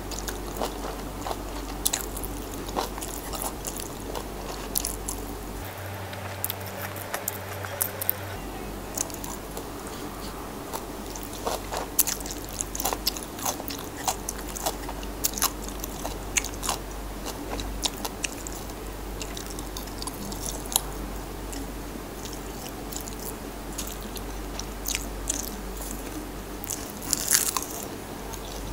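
Close-up eating sounds of a person chewing and crunching kimchi: scattered short crunches and bites, with a louder run of crunching near the end.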